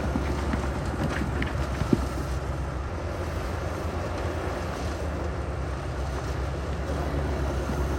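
Heavy equipment's diesel engine running steadily with a low rumble, with a single sharp knock about two seconds in.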